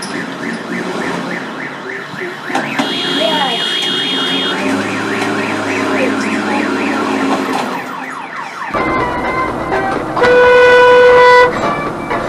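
An electronic siren warbling rapidly up and down, several times a second, with a short steady high beep about three seconds in. The sound changes abruptly near nine seconds, and a loud, steady vehicle horn blast follows, lasting about a second and a half.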